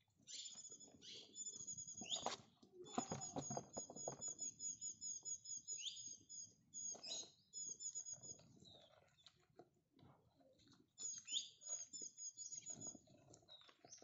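A small bird chirping in quick, evenly repeated high notes, in several bouts, over light scuffling and knocks from two baby goats jostling and butting on leaf-strewn ground.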